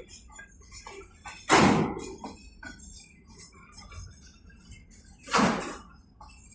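Two heavy knocks, about four seconds apart, each with a short ringing tail, among faint light clicking.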